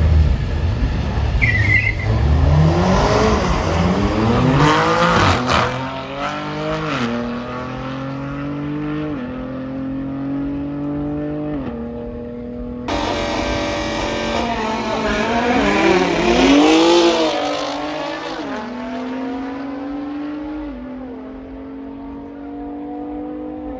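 Audi RS3's five-cylinder engine at full throttle on a drag run, revving up and dropping back with each quick upshift. About halfway through, the sound cuts off abruptly and a second stretch of hard acceleration through the gears follows.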